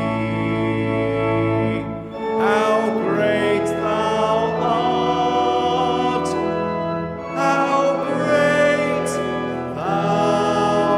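A hymn sung by voices over sustained instrumental accompaniment, in long held phrases.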